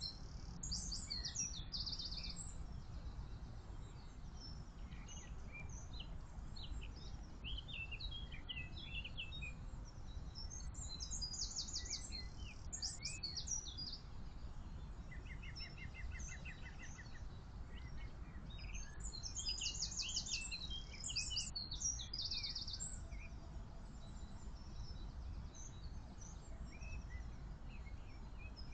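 Songbirds singing, one bird repeating a short song of rapid high trills roughly every ten seconds, with scattered chirps between, over a steady low background rumble.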